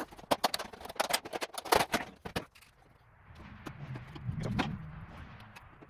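Metal drill press parts clicking and knocking against each other as they are handled and fitted, a quick run of sharp taps over the first two seconds or so, followed by a low rumble that swells and fades about four seconds in.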